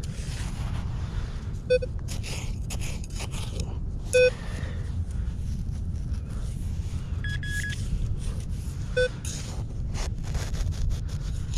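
Metal-detector signal beeps: three short low tones and a quick run of higher beeps. Between them come scraping sounds of digging in sand, over a steady low rumble.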